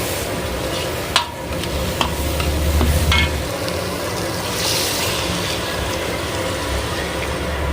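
Chicken gravy sizzling as it fries in a pan and is stirred, with three sharp clinks of the utensil against the pan, the loudest about a second in.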